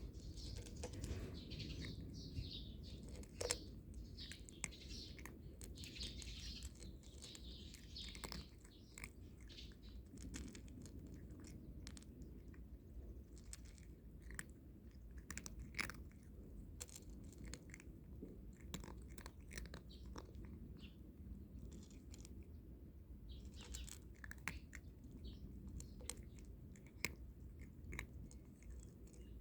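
A cat crunching dry kibble: faint, irregular crunches and chewing clicks.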